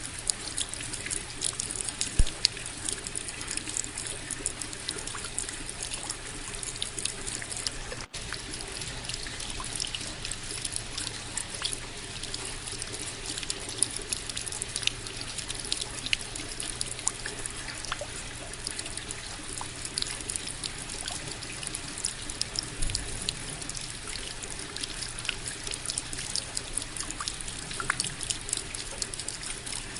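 Steady rain, with many separate drop hits heard against an even rush of falling water. The sound cuts out for an instant about eight seconds in.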